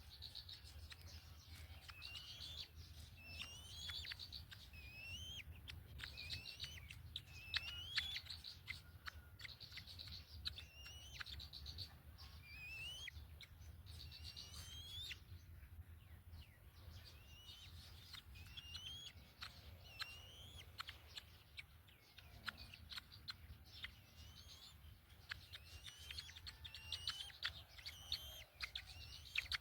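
Birds calling over and over: short rising whistled notes mixed with fast stuttering trills and sharp clicks, over a low steady hum.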